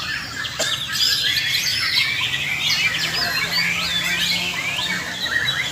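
Several white-rumped shamas (murai batu) singing at once in a dense, overlapping chorus of rapid whistles, trills and glides, typical of a shama singing contest. A low steady hum runs underneath from about two seconds in.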